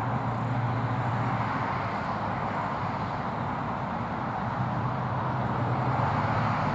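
Steady rumble of distant traffic with a low hum underneath. Over it, a small bird gives five short, very high chirps, about one every 0.7 seconds, in the first three seconds.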